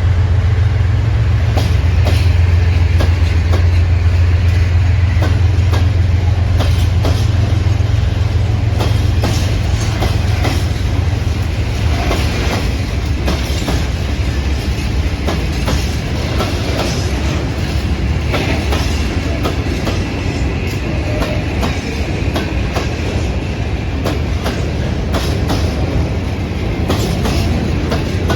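A train running past, its wheels clicking over rail joints again and again. A strong low drone is loud for roughly the first ten seconds and then fades while the wheel clatter goes on.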